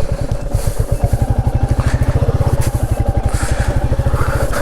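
Motorcycle engine running at low, steady revs, its firing pulses coming evenly and rapidly without rising or falling.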